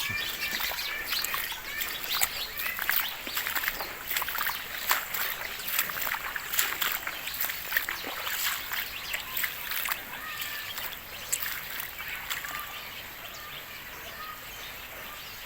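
Heavy rain falling, a dense patter of drops striking hard surfaces, with a few birds chirping; it thins out about twelve seconds in, leaving a steady hiss.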